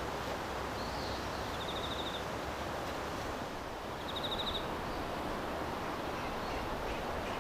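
Outdoor ambience: a steady rushing hiss, with two short, rapid, high-pitched trilled calls about two seconds apart.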